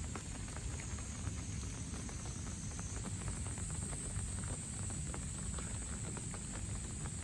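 Rain pattering, with many small drops ticking, over a steady high-pitched insect drone and a low rumble.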